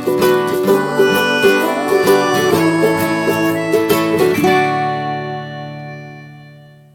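Acoustic plucked-string music, busy picked notes that end about four and a half seconds in on a final chord left to ring and fade away.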